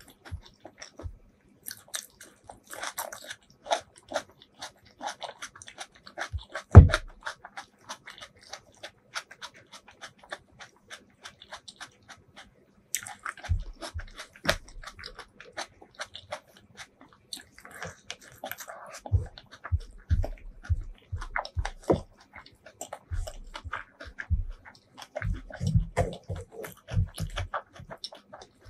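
Close-miked eating sounds: chewing with wet mouth clicks and crackles, and one loud thump about seven seconds in. In the second half come repeated soft low thuds as rice is pressed and mixed by hand on the wooden board.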